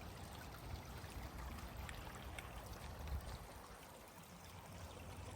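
Faint, even outdoor background hiss with a low rumble underneath and a few light ticks.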